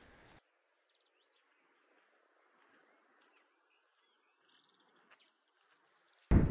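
Faint birds chirping, scattered short high calls over near silence. Near the end a loud rushing noise cuts in suddenly.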